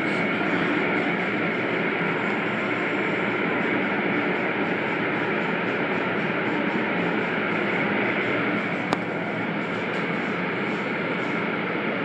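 Automatic car wash running: a steady rushing noise, with one sharp click about nine seconds in.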